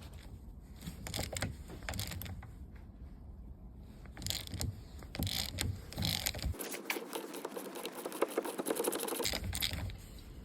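Rusty threaded stud being worked loose while its nuts are gripped in a vise: a run of uneven metallic clicks, ticks and scraping creaks as the seized thread gives.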